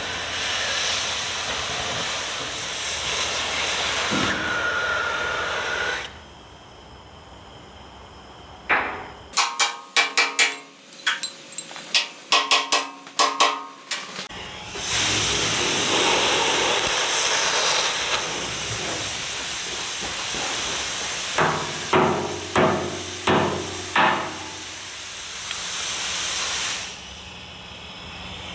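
Hammer blows on steel in two quick runs: about a dozen strikes in the middle and about six more later on. Between them are long stretches of a steady, harsh hiss from metalworking on the steel plate.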